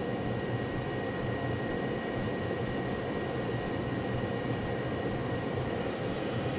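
Gas furnace running in heat mode: a steady rush of burners and blower air, with a thin steady whine on top.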